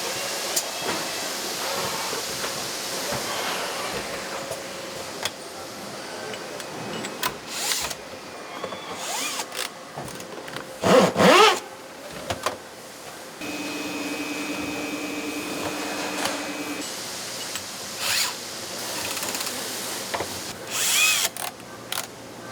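Power tool motor briefly run up and back down in two short loud bursts, among clicks and knocks of parts being handled. A steady hiss at the start, and a steady machine hum for about three seconds in the middle.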